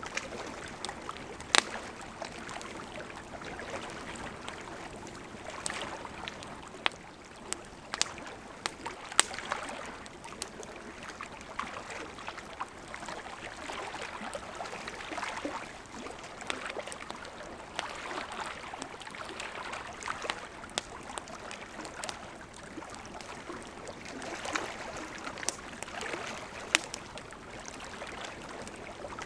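Wood campfire burning: a steady hiss of flames with frequent irregular crackles and pops of burning wood. A few sharper snaps stand out, the loudest about one and a half seconds in and again around nine seconds.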